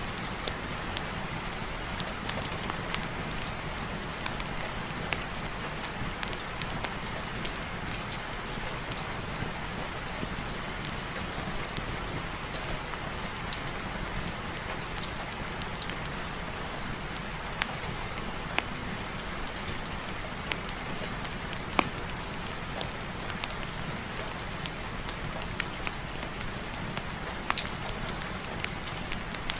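Steady heavy rain, an even wash of noise with scattered sharp ticks throughout.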